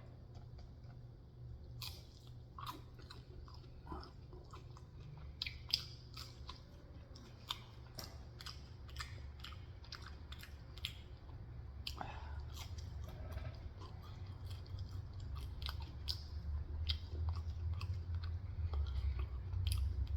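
A person chewing and biting food close to the microphone: a run of short crisp crunches and wet mouth clicks, over a low steady hum.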